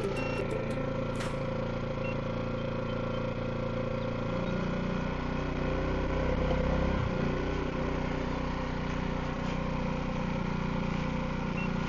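Portable gas generator running steadily, powering an air conditioner. Its note thickens about four and a half seconds in and briefly dips near seven seconds.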